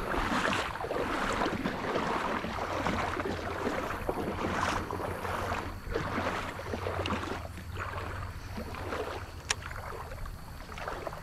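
River water lapping and splashing around a kayak, in irregular soft surges, with a single sharp click near the end.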